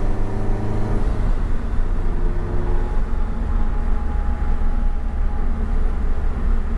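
Cabin sound of a Scion FR-S with aftermarket exhaust on the move: its flat-four engine and road noise make a steady low drone, the engine tone easing off about a second in.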